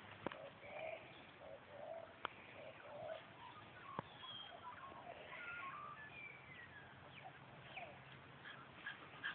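Faint birds calling: a run of low, evenly repeated notes over the first few seconds, then scattered higher chirps and short sliding whistles. A few sharp clicks sound through it.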